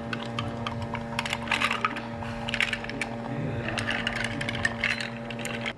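Repeated light clinks and clatters of dishes and utensils being handled, over a steady electric machine hum; both cut off suddenly near the end.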